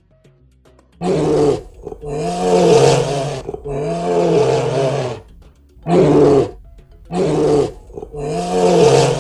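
A bear's vocal calls, six of them, each rising and then falling in pitch, with short pauses between.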